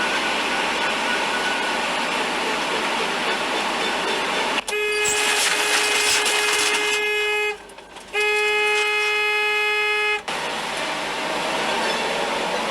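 Car horn held in two long steady blasts, about three seconds and then about two seconds with a short break between, over steady road noise.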